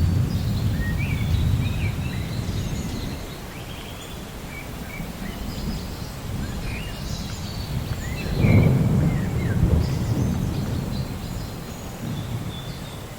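Rainforest ambience: a deep thunder rumble that fades, then swells again in a louder roll about eight and a half seconds in, under many birds chirping and whistling in short, sliding calls.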